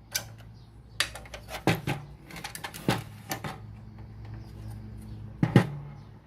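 Scattered clicks and knocks of things being handled on a workbench, loudest as a double knock about five and a half seconds in, over a low steady hum.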